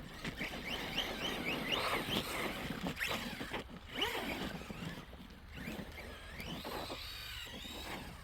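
Electric RC truck's motor whining as it is throttled up and down: a run of short rising whines in the first few seconds, then a longer whine that climbs and falls away near the end.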